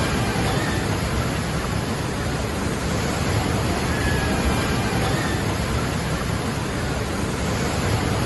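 Waterfall rushing: a steady, dense roar of falling water with no breaks.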